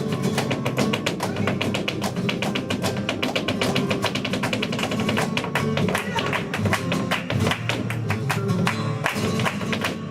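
Flamenco seguiriya: a dancer's rapid footwork, a dense run of sharp heel and toe strikes, over flamenco guitar accompaniment.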